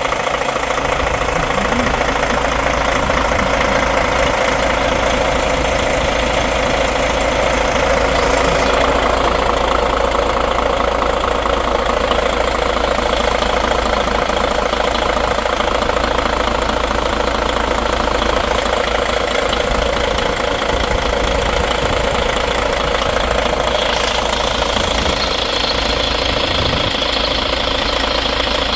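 Kia Granbird Parkway bus's diesel engine idling steadily.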